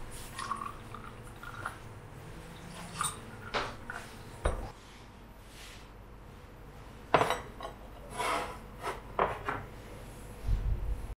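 Dishes and cutlery clinking and knocking in a series of separate light touches, with a few louder clinks about seven seconds in.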